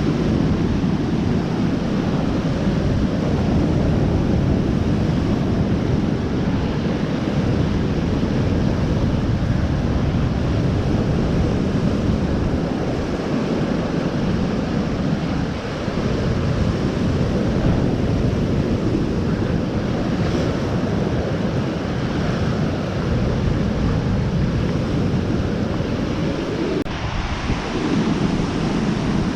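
Steady rushing of waves washing on a lakeshore, mixed with wind buffeting the microphone.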